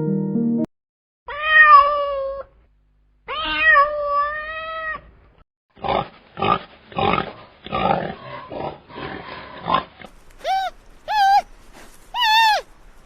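Two long cat meows, then a run of short, rough grunting calls, then repeated short, high-pitched bleats about every half second, as one animal call follows another.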